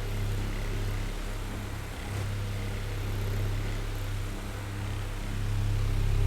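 Oscillating electric fan running: a steady low motor hum under a soft whir of airflow. The level rises and falls gently and grows louder near the end.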